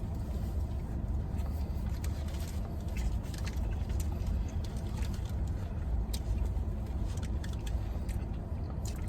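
Steady low rumble like an idling car heard from inside the cabin, with small scattered clicks and rustles of people eating.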